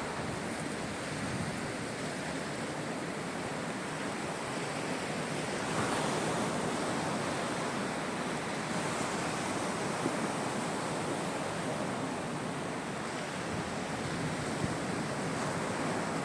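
Caspian Sea waves breaking and washing onto the shore: a steady rushing surf that swells about six seconds in.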